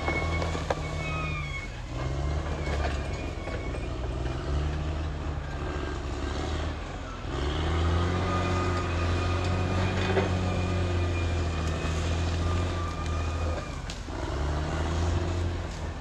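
Caterpillar D6R XL bulldozer's diesel engine running under working load. Its pitch sags and recovers several times: about two seconds in, around six to seven seconds, and near fourteen seconds. Thin, high, wavering squeals ride over the engine throughout.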